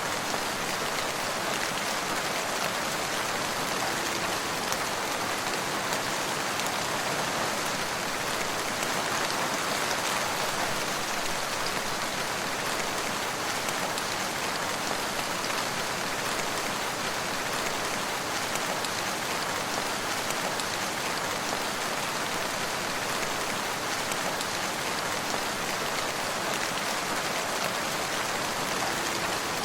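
Steady, even rain falling, with no breaks or thunder.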